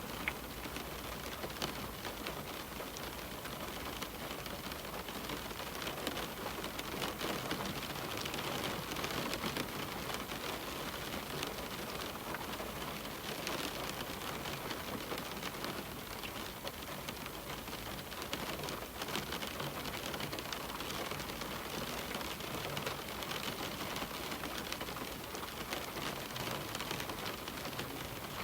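Steady rain pattering on a window, a continuous even hiss with many small drop ticks.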